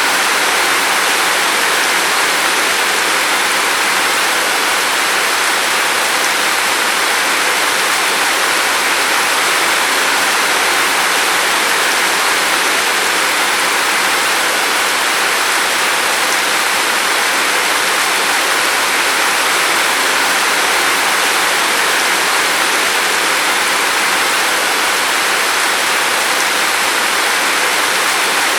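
Steady rain: a dense, even hiss with no single drops standing out.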